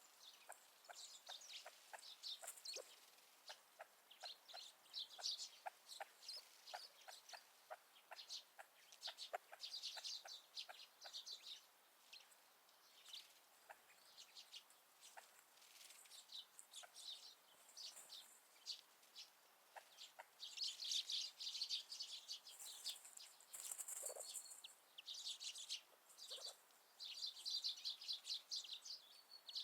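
A flock of grey partridges and small winter birds calling faintly: a continual patter of short, high chirps and soft clucking notes, busiest in the second half.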